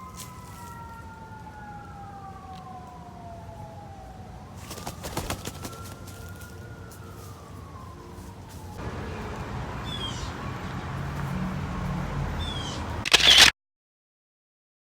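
Siren wailing, its pitch sliding slowly up and down, over a steady background hiss. About nine seconds in the sound changes to a louder, noisier background with a low hum. A brief loud burst near the end cuts off into silence.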